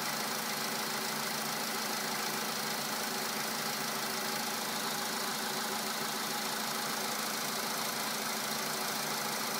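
A 2011 Volkswagen Polo Sedan's petrol engine idling steadily about three and a half minutes after a cold start, with the unpleasant knock that the owner hears on cold starts and that goes away as the engine warms up.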